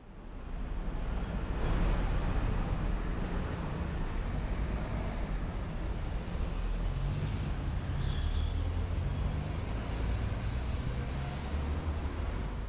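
Steady road traffic noise: a low engine rumble under a wash of noise, fading in at the start and out at the end.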